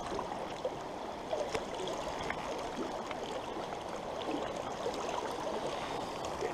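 Steady rush of a fast, shallow trout stream running over rocks in riffles and pocket water, with a few faint ticks.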